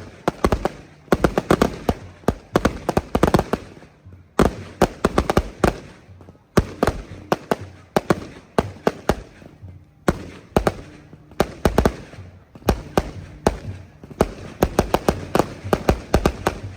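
Strings of firecrackers going off in dense, irregular volleys of sharp bangs, broken by short lulls.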